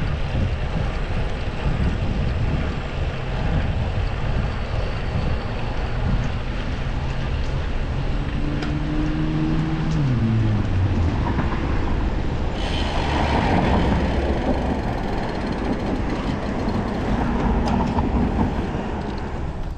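Wind rushing over the microphone of a bicycle-mounted camera while riding in traffic. About ten seconds in, a passing motor vehicle's engine tone drops in pitch, and a louder, brighter rush of passing traffic follows for the rest of the stretch.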